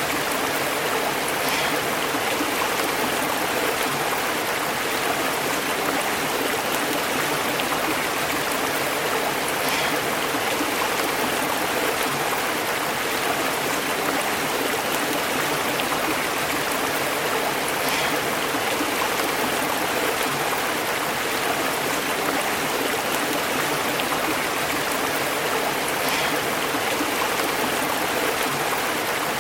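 A stream flowing and bubbling over rocks: a steady, unbroken rush of water.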